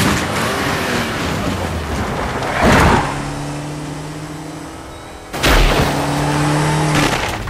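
BMW X5 engine running hard as the SUV accelerates, with three loud bangs over it about two and a half seconds apart, the last one heavy and deep.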